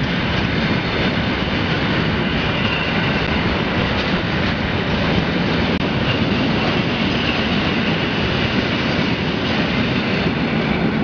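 Freight train of covered hopper and open-top wagons rolling past, a loud steady rumble and rattle of wagon wheels on the rails.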